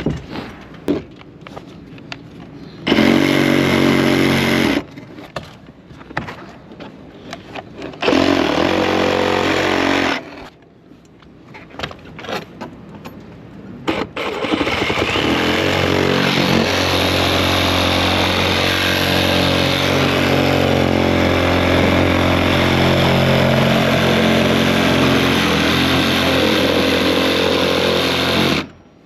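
A small engine revving in two short bursts of about two seconds each, then running steadily at high speed for about fourteen seconds and stopping near the end.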